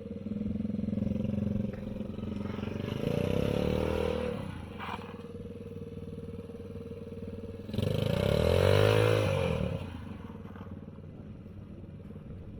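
Small 110cc engine of a kids' car running, revved up twice with its pitch rising and falling, about three seconds in and again about eight seconds in, the second time louder.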